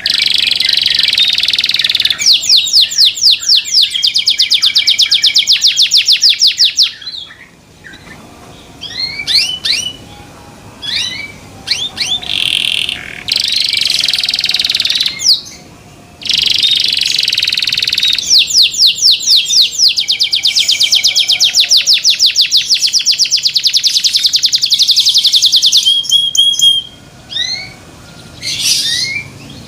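Domestic canary singing loudly. Two long song phrases of rapid trills are broken by short chirps and brief pauses.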